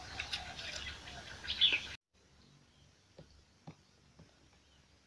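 Birds chirping over outdoor ambience, with the loudest call, a short falling chirp, about a second and a half in. About two seconds in the sound drops suddenly to near silence, leaving only a few faint clicks and small chirps.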